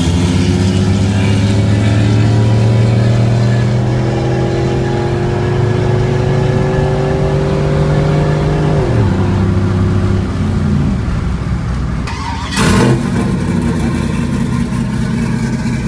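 A vehicle's engine accelerating hard during a street race, heard from inside the cabin, its pitch climbing slowly for about nine seconds and then dropping sharply. Near the end a sudden sharp sound comes just before a different engine sound takes over.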